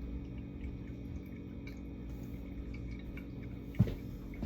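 Quiet handling noise over a steady low hum: a few faint clinks and one knock near the end, as jars and containers are moved about.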